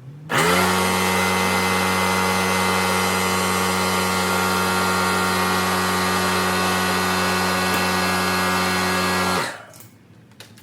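Battery-powered smoke-test machine's small electric pump running steadily with a low hum and an airy hiss, pushing smoke into the engine intake to find a vacuum leak. It switches on just after the start, runs for about nine seconds, and shuts off with a brief wind-down.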